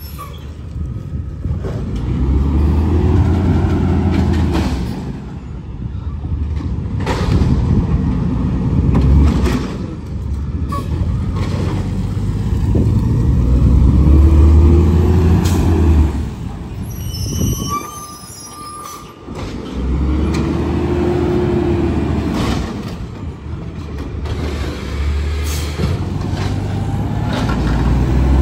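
A heavy diesel truck engine, likely a garbage truck's, revving up and settling back about four times. Each rev rises and falls in pitch over a few seconds, with a few sharp clicks and short air hisses between them.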